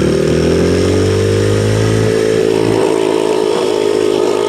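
Yamaha TT-R110 dirt bike's small single-cylinder four-stroke engine running under throttle, its pitch climbing a little in the first second and then holding steady.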